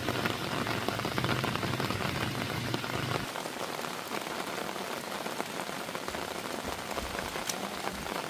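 Heavy rain falling steadily, a dense patter of drops on a surface. A low rumble underneath stops about three seconds in.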